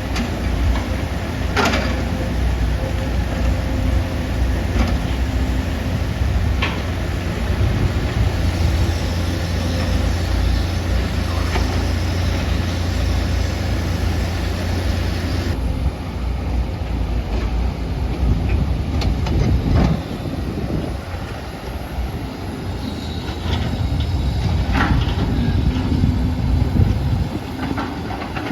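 Excavator's diesel engine running steadily under load, with scattered sharp knocks and clanks from the machine at work.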